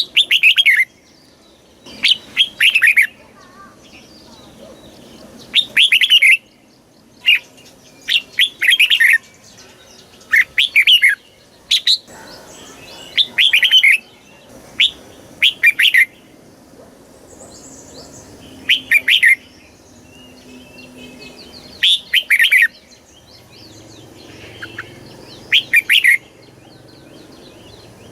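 Red-whiskered bulbul singing: short phrases of quick whistled notes, one every second or two, with brief pauses between them.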